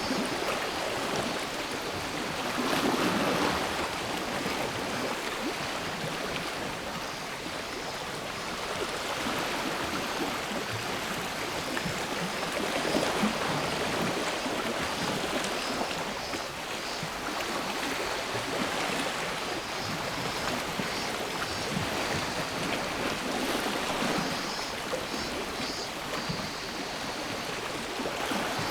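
Small sea waves washing onto the shore in slow swells every few seconds, with a faint pulsing cicada song joining in near the end.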